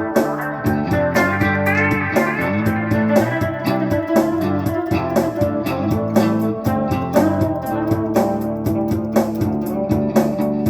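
Instrumental break in a rock-blues song: guitars and bass guitar playing over a steady drum beat.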